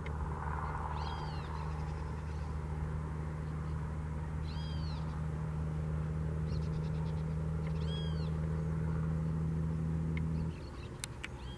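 Three short arched bird calls, each rising and falling in pitch, a few seconds apart, with a brief rapid clicking between the second and third. Beneath them a steady low hum carries most of the loudness and cuts off suddenly near the end.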